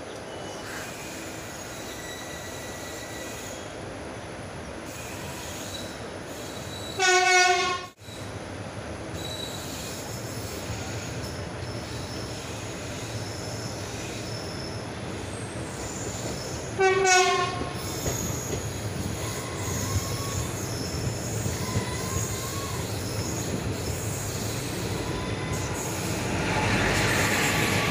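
Passenger train running, its coaches rumbling steadily on the rails as heard from an open coach window. A locomotive horn sounds two blasts of about a second each, roughly ten seconds apart. Near the end the noise grows louder as the train passes close by a track maintenance machine on the next line.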